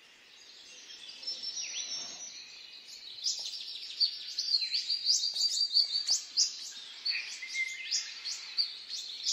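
Several birds chirping and singing, fading in, with many quick downward-sweeping notes, some repeated in fast runs.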